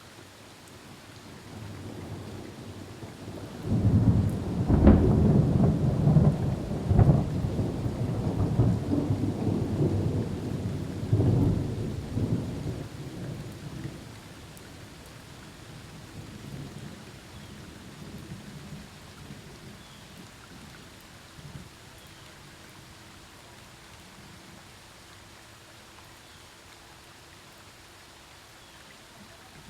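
Thunderstorm: a long roll of thunder swells about two seconds in, breaks loud about four seconds in, and rumbles on with several more peaks before dying away about halfway through. Steady rain falls throughout.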